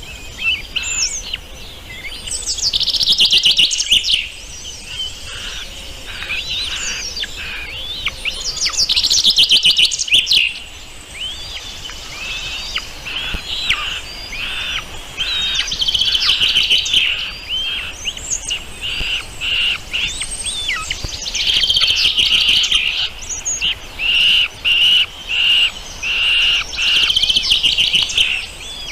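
Songbirds singing and chirping, with quick trills about 3 and 9 seconds in and a run of short repeated chirps near the end.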